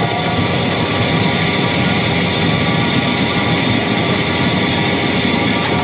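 John Deere 335P skid steer's diesel engine running steadily, loud as heard from the cab, with several steady whining tones above the engine noise.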